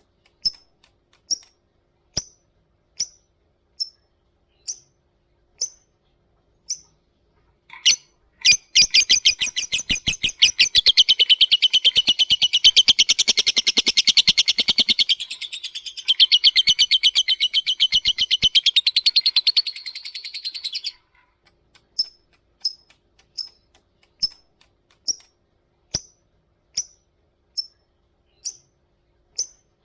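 Lovebird calling: sharp single high chirps about once a second, then about nine seconds in a long, fast chattering trill lasting some twelve seconds, the long 'ngekek' call. Single chirps resume after it.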